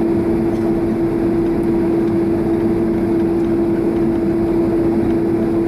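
Boeing 767-300's GE CF6 turbofan engines running at taxi idle: a steady rumble with a constant hum.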